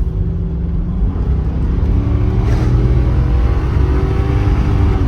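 Car engine accelerating hard, rising in pitch, dropping back once about midway as it shifts up, then climbing again.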